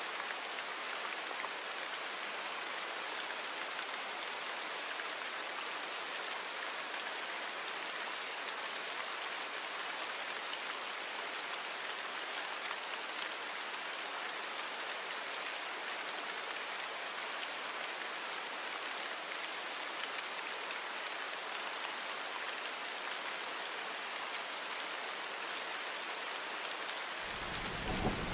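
Steady rain falling, an even hiss of drops on a surface. Near the end a low rumble of thunder sets in.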